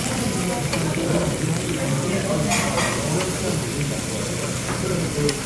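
Pork galbi sizzling steadily on a hot tabletop grill.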